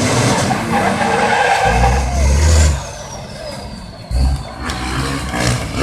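Engine of a drifting competition vehicle revving hard, with surges about two seconds in and again about four seconds in, and a lull between them. A high whistle falls slowly in pitch between the two surges.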